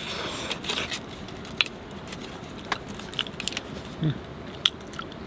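A person eating a roasted sweet potato: a rustle in the first second, then small clicks and mouth sounds of chewing, with a brief low vocal murmur about four seconds in.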